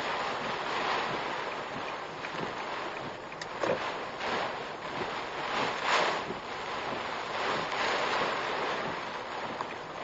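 Typhoon wind gusting, a steady rushing noise that swells and fades, with a few brief sharp knocks.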